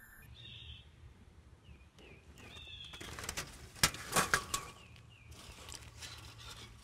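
Birds chirping in short, repeated calls. A brief cluster of sharp clicks and rustling, the loudest sound, comes about three to four and a half seconds in.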